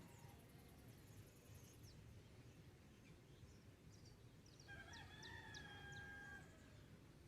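A rooster crows once, faint and distant: one call of about two seconds past the middle, rising, held, then dropping away. A few short, high bird chirps come just before and during it over a quiet, low rural background.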